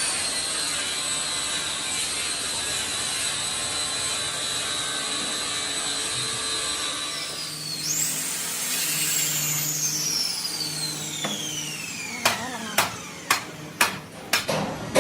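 A high-speed power tool runs with a steady high whine and hiss, dips and catches again about halfway through, then is switched off and winds down in a long falling whine. Near the end a hammer strikes sharply, about twice a second.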